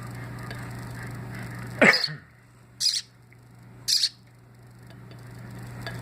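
Baby bird (nestling) giving three short, high begging cheeps about a second apart, the first one sliding down in pitch; the chick is hungry for food.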